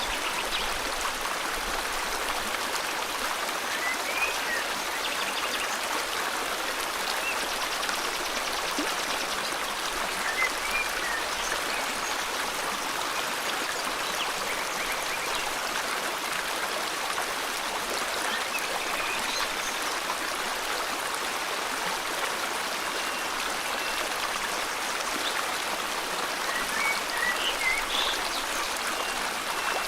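A river flowing with a steady rush of water, with a few faint, brief bird chirps now and then.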